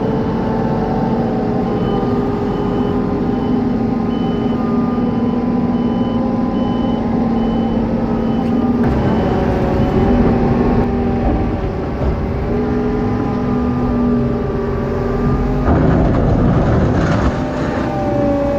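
Heavy farm machinery engines running under load, with a reversing alarm beeping steadily, about one and a half beeps a second, for several seconds before it stops.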